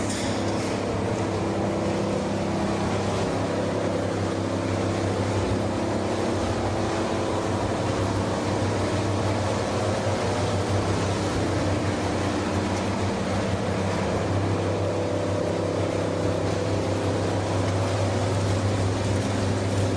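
PE/PP plastic washing machinery running: a steady mechanical drone with a strong low hum, under an even wash of noise.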